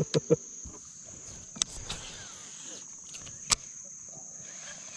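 Steady high-pitched insect chorus buzzing throughout, with two sharp knocks, about one and a half and three and a half seconds in.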